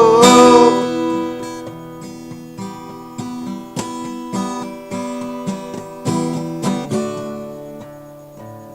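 Acoustic guitar played by hand, a sung note trailing off in the first second, then plucked and strummed chords alone, gradually getting softer as the song winds down.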